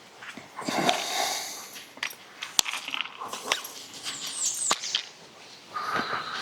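A dog snuffling and moving close to the microphone, with a few sharp clicks about halfway through and two high falling chirps.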